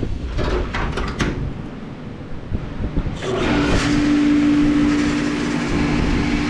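Parts-cleaning machine being closed up and switched on: a few clicks and knocks, then about three seconds in its motor starts with a steady hum over a hiss.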